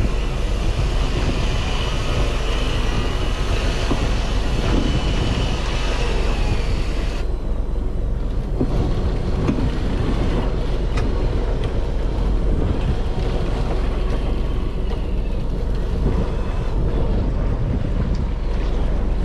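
Fishing boat's engine running steadily under wind buffeting the microphone. The hiss drops off suddenly about seven seconds in, leaving the low rumble.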